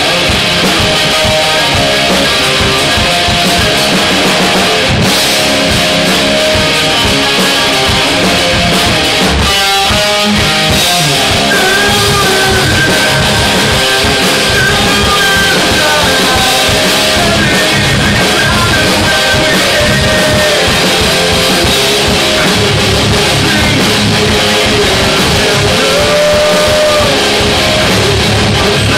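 Live rock band playing: distorted electric guitars and drum kit, loud and dense, with sustained guitar lines ringing over the top.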